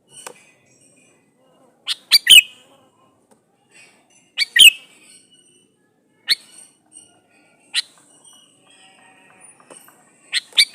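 Male sooty-headed bulbul (kutilang) calling to a female: five short bursts of loud, sharp notes a couple of seconds apart. Some bursts are two or three quick notes and some a single note, with faint twittering between.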